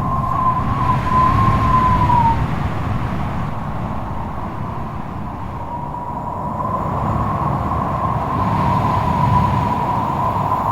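Strong wind howling, with a low rumble under a thin wavering whistle that fades out about two seconds in and comes back around the middle.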